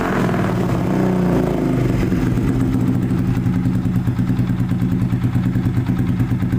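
Motorcycle engine running through an aftermarket racing exhaust, its revs dropping back over the first second or so and settling into a steady idle with an even pulsing beat.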